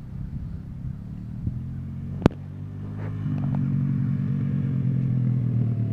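Dirt bike engine running, growing louder about three seconds in and then holding a steady pitch; a single sharp click a little after two seconds in.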